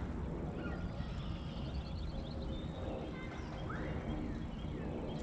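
Songbirds chirping and whistling, with short high notes scattered throughout and a quick rising call about four seconds in, over a steady low rumble.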